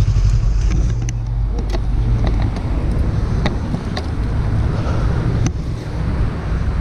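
Motorcycle engine running at low, steady revs, with a few sharp clicks scattered through.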